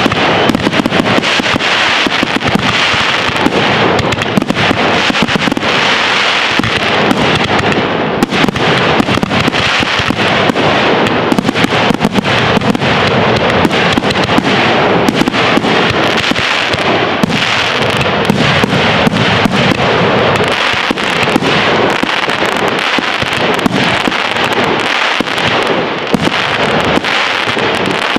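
Fireworks display going off continuously: a dense barrage of cracking, popping bursts in quick succession, with no pauses.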